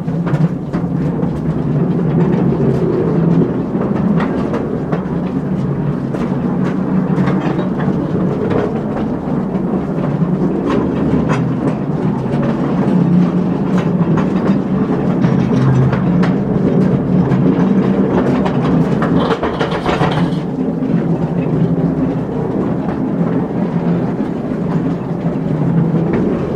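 Steel wheels of an old mine rail car rolling along narrow-gauge track, a steady rumble with constant clicking and clattering over the rail joints. A short hiss comes in about three quarters of the way through.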